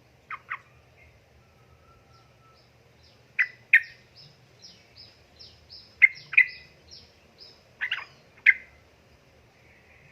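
Yellow-vented bulbul (trucukan) singing: loud, sharp paired notes repeated every two to three seconds, with a quick run of higher, falling notes in between.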